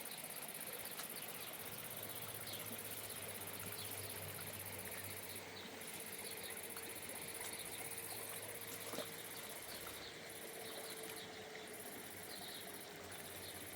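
Insects chirring in a steady high-pitched chorus that drops out briefly a few times, with a faint low hum underneath.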